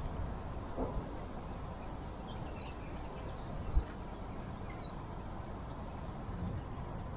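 Faint birds chirping over a steady low rumble, with one sharp knock a little before halfway.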